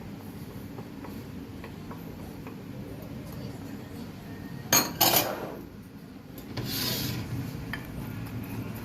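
A spoon stirring and scraping food against cookware while ingredients are mixed, with two sharp knocks against the container about halfway through, followed by a brief scraping rush.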